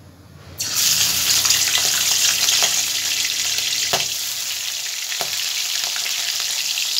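Prawns going into hot mustard oil in a kadai: the oil starts sizzling loudly about half a second in and keeps frying steadily, with a couple of short knocks as more prawns are laid in.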